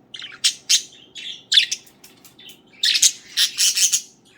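Pet budgerigars chattering: a run of short, harsh chirps and squawks, with a denser burst of calls from about three seconds in.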